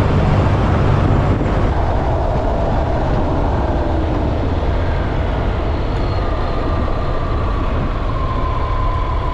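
Honda NC750X motorcycle riding at road speed: a steady rush of wind noise over the engine's low drone, with a faint tone that slowly shifts in pitch.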